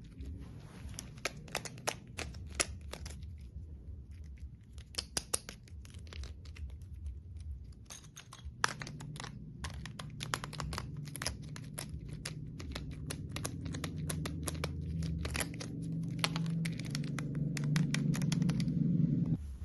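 Toys handled up close: many quick clicks and taps, some crinkling, over a low hum that grows louder from about halfway and stops abruptly just before the end.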